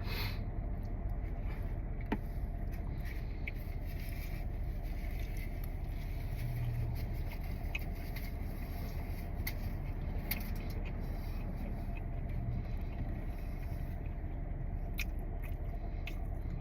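Steady low rumble of a car engine idling, with faint scattered clicks and scrapes.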